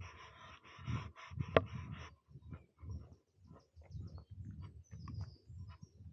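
Footsteps of someone walking on a forest trail, a steady pace of about two steps a second. For the first two seconds a choppy rhythmic hiss rides over the steps, and a sharp snap, the loudest sound, comes about a second and a half in.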